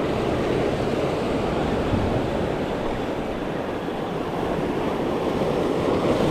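Ocean surf washing on the shore, a steady rush of water, with wind on the microphone.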